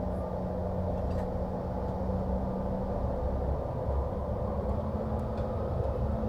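Cabin noise inside a CRJ-550 regional jet: the steady drone and hum of its rear-mounted jet engines with airflow rumble. The engine tone edges slightly higher near the end.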